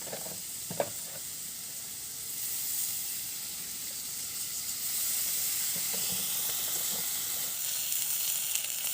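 Clams sizzling and steaming in a hot wok with water just added, a steady hiss that grows louder about five seconds in. A single light knock a little under a second in.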